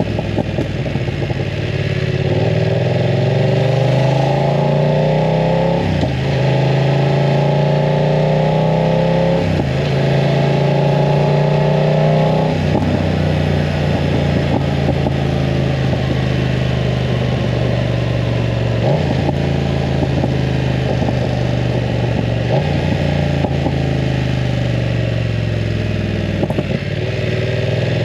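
BMW F900 R's 895 cc parallel-twin engine through an aftermarket full exhaust, accelerating and shifting up through the gears. The pitch climbs and drops back at each change three times in the first half, then holds fairly steady at cruise.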